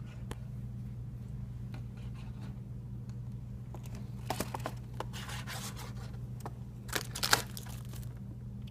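Plastic snack wrappers rustling in a drawer as a lovebird moves among them, in a few short bursts with light clicks between, the loudest about seven seconds in. A steady low hum runs underneath.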